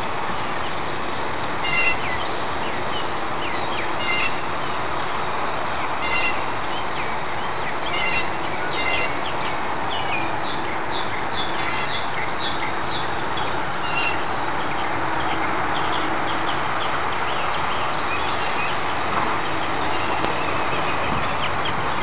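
Songbirds singing over a steady background hiss. Short two-note calls repeat about every two seconds at first, then give way to a busier run of chirps in the middle.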